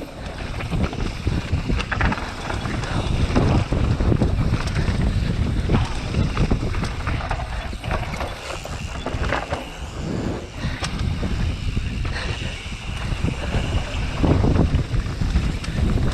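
Wind rushing over the microphone along with the rumble and rattle of a mountain bike riding down a muddy trail, with irregular knocks from bumps throughout.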